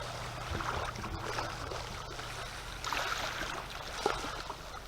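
Open-air background at the water's edge: a steady low hum under an even hiss, with a few faint clicks.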